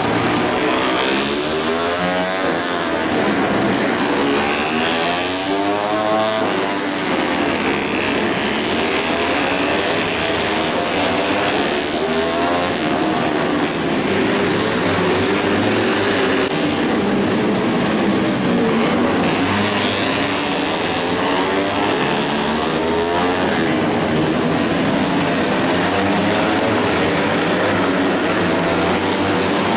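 Racing motorcycle engines passing one after another, each high-revving note sweeping up and down as the bikes accelerate and shift, over a steady hiss.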